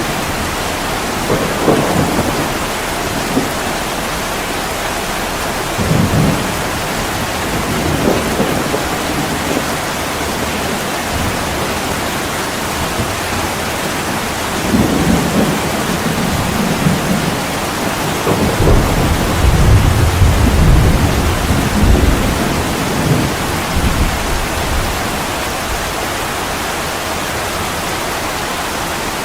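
Heavy rain pouring steadily, with several rolls of distant thunder rumbling through it; the longest and loudest roll comes about two-thirds of the way in.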